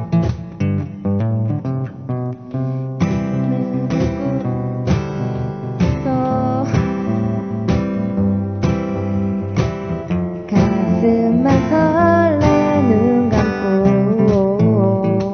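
Acoustic guitar playing: chords strummed in a steady rhythm that fills out about three seconds in, with a wavering, sliding melody line carried over the strumming from about ten seconds in.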